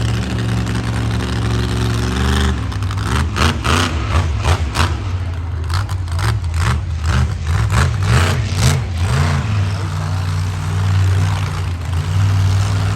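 Monster truck engine running steadily, then revved hard in a quick series of blips for several seconds, rising and falling in pitch with sharp bangs, before settling back to a steady run near the end.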